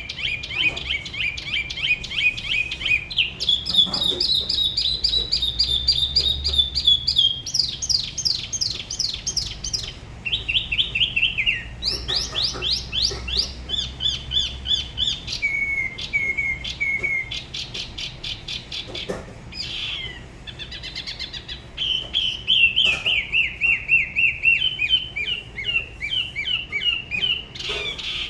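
Spot-throated babbler singing a long, varied song: fast runs of repeated high notes, the pattern changing every few seconds, with a brief softer stretch about two-thirds of the way through.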